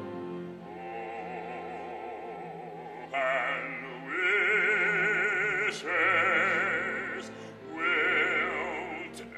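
Operatic singing with wide vibrato over orchestral accompaniment; the voice enters about a second in over a held chord and swells much louder about three seconds in, in long sustained phrases.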